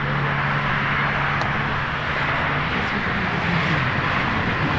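Steady roar of road traffic, with a low engine hum underneath that fades out about halfway through.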